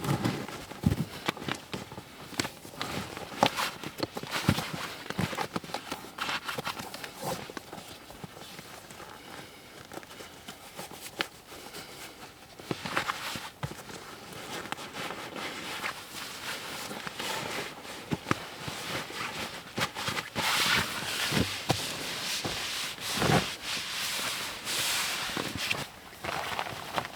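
Footsteps in snow with handling noises: an irregular run of crunches and knocks, busier in the last several seconds.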